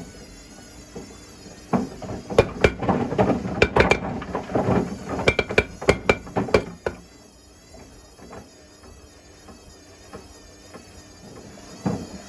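Bricks and a concrete patio block tumbling in the drum of a Hotpoint Smart Tech WMFUG742 washing machine on a wool cycle, knocking and clattering against the drum in a quick run of sharp knocks. The knocks die down to a few faint ones about halfway through as the drum pauses.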